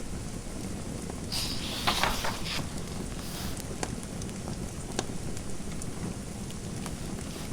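Fireplace fire crackling, with scattered small pops and snaps over a steady low rumble. About a second and a half in comes a louder scratchy rustling lasting about a second, and a shorter one follows near the three-second mark.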